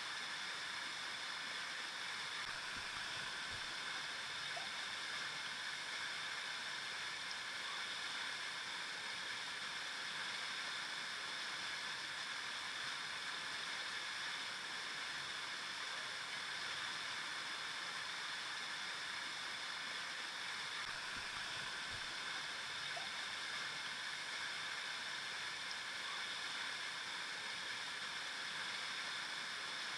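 River water flowing, a steady rushing and gurgling of the current.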